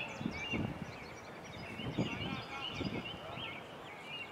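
Birds chirping, with many short high calls overlapping throughout, and faint snatches of voices a few times.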